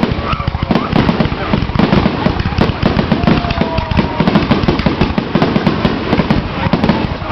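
Fireworks going off in a dense barrage: many sharp bangs a second, overlapping into continuous crackle and booms.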